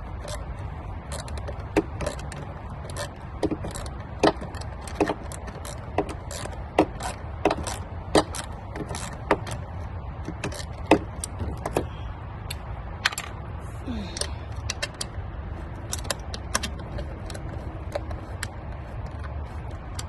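Metal hand tools clicking and clinking in irregular sharp ticks as the throttle body's bolts are tightened, over a steady low background rumble.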